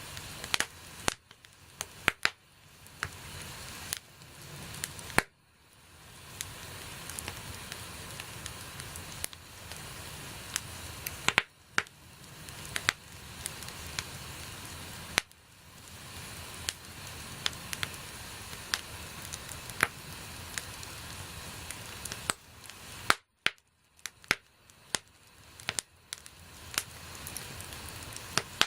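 Wood fire burning: a steady hiss with frequent, irregular sharp crackles and pops. The hiss drops out briefly a few times.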